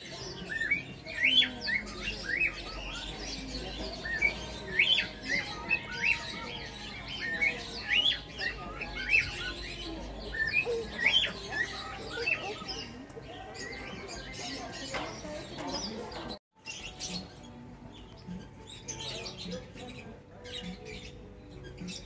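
Small birds chirping: many short, quick rising chirps, dense and repeated through the first dozen seconds. Then come sparser, fainter calls, broken by a brief dropout to silence about 16 seconds in.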